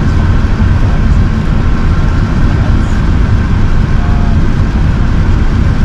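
Steady low rumble inside the passenger cabin of an Airbus A380 airliner, loud and even with no change in pitch or level.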